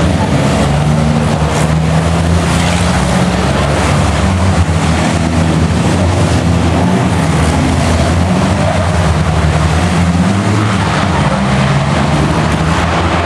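Steady engine noise over a constant rushing hiss, with low engine tones stepping up and down in pitch every second or so.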